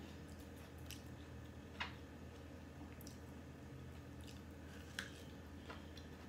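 Faint, wet chewing and mouth smacks from eating boiled corn kernels picked off the cob one at a time. There are a few sharp clicks, the loudest about two seconds and five seconds in, over a steady low hum.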